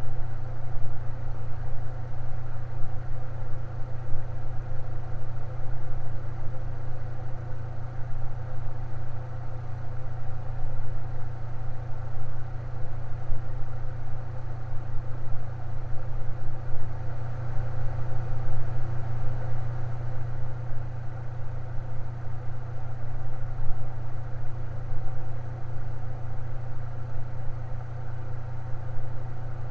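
Electric fan running steadily: a strong low hum with fainter steady whirring tones above it.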